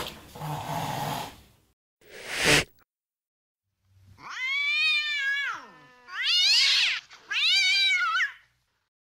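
Recorded angry-cat sound clips from a phone app, played one after another: two short hisses, at the start and about two seconds in, then after a pause three drawn-out yowls that rise and fall in pitch.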